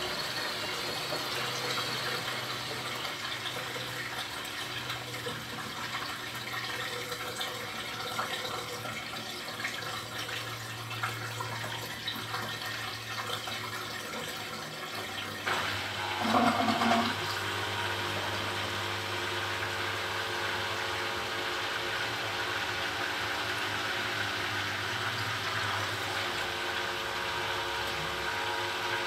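Beko front-loading washing machine running mid-cycle, water rushing and sloshing in the drum. About halfway through there is a brief louder burst, after which the machine settles into a steadier hum.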